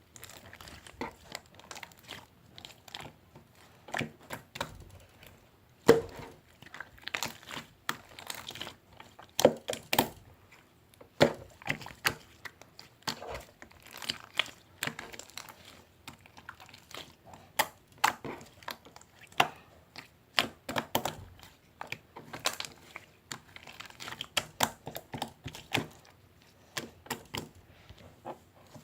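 Hands squishing and pressing slime, giving irregular sticky clicks and crackles.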